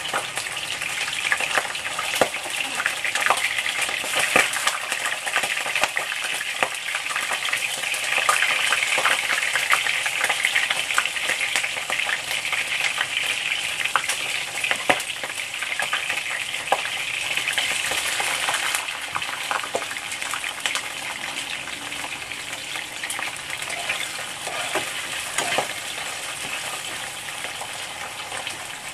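Mantis shrimp sizzling in hot oil in a wok, a dense crackle of many small pops, with chopsticks and then a slotted spatula stirring them. The sizzle eases a little about two-thirds of the way through.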